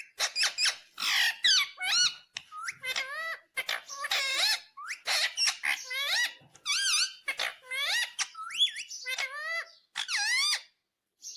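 Indian ringneck parrot chattering: a fast run of short, high-pitched squeaks and calls that glide up and down, stopping shortly before the end.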